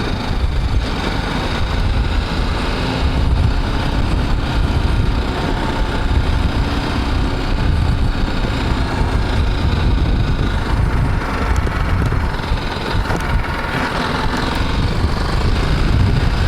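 BMW G310GS's single-cylinder engine running steadily, a continuous low rumble.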